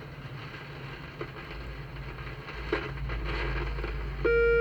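Multimeter continuity tester crackling and clicking as its probes touch the phone's power-switching part, then its buzzer starts a steady beep near the end. The continuous beep marks a short across the switch, which the repairer finds blown.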